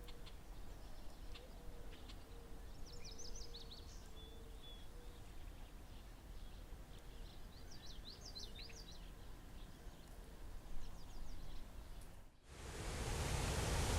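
Small birds chirping in short quick runs over quiet outdoor ambience with a faint, broken low hum. About twelve seconds in, the sound cuts abruptly to a loud, even rush of falling water from a waterfall.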